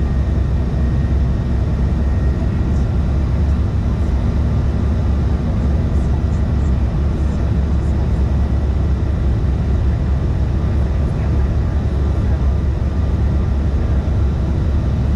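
Steady cabin noise aboard a CRJ-550 regional jet: a low rumble of airflow and the rear-mounted turbofan engines, with a few faint steady whine tones above it.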